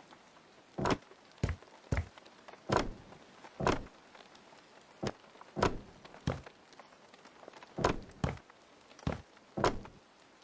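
A series of irregular knocks and thuds, a dozen or so, roughly one every second, some with a short ringing tail, from hand work on the cabin.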